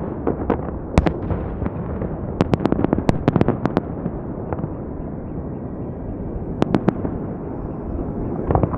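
Holiday fireworks salute: shells bursting in sharp cracks, one about a second in, a rapid run of them around the third and fourth seconds, and a few more near the end, over a steady background noise.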